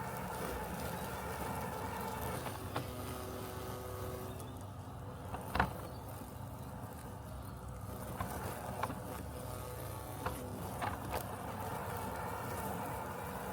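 Robotic lawn mower running with a steady mechanical hum, broken by a few short sharp clicks, the loudest about halfway through.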